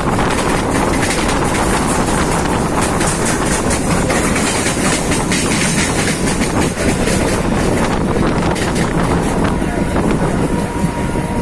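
Mumbai suburban local train running along the track, heard from its open doorway: a loud, steady rumble of wheels on rail with a run of rapid clicks through the middle as the carriage rolls over points and rail joints.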